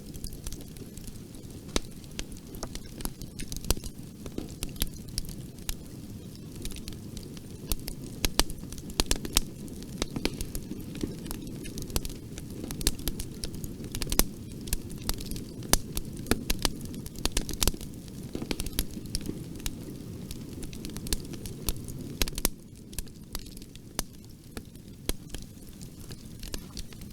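Bonfire burning with a steady low rumble of flames and frequent sharp crackles and pops of burning wood, easing off slightly about three quarters of the way through.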